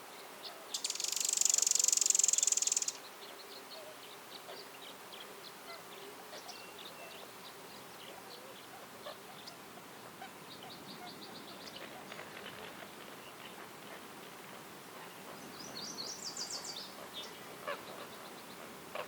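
Woodland birds chirping in short high notes throughout. About a second in, a loud harsh buzz lasts about two seconds, and near the end a bird gives a quick run of high notes.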